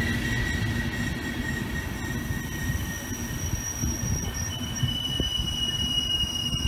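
Deutsche Bahn InterCity coaches rolling past on steel rails: a steady low rumble of wheels on track with thin, high-pitched wheel squeal over it, and a second squeal tone joining about two-thirds of the way through.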